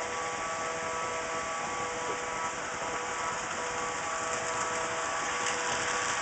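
HO scale model trains running on the layout: a steady whir of small electric motors and wheels rolling on the rails, with a faint steady whine, getting a little louder near the end.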